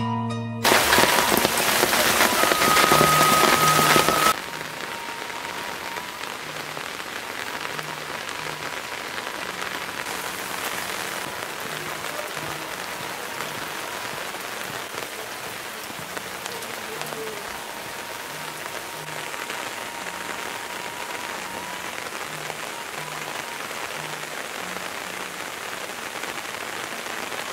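Steady rain pattering on leaves and muddy ground. In the first few seconds the rain noise is much louder, then it cuts off suddenly to the steady patter.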